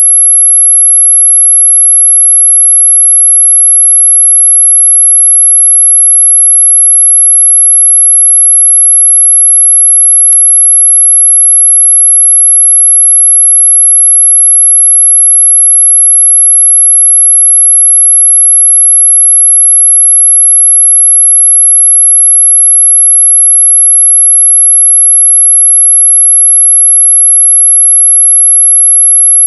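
A single continuous, very high-pitched pure electronic tone, played as a mosquito-repellent sound. It holds one pitch and one level without a break.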